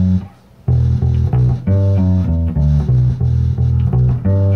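Electric bass guitar playing a blues lick in E: a held low note cuts off, then after a short pause a run of plucked notes about three a second, including a pull-off from the 5th to the 4th fret.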